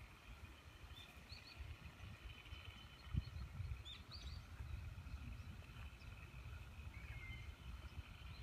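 Quiet outdoor ambience: a low, uneven rumble on the microphone, with a single low bump about three seconds in. Faint, short bird chirps come a little after one second in and again around four seconds.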